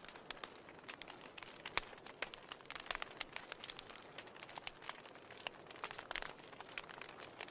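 Wood fire crackling in a fireplace: irregular sharp snaps and pops, a few louder than the rest, over a steady soft hiss of burning.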